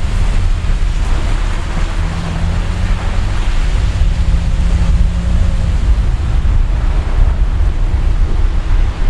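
A vehicle moving slowly, with a loud, steady low rumble of engine and road noise and a faint hum running through it.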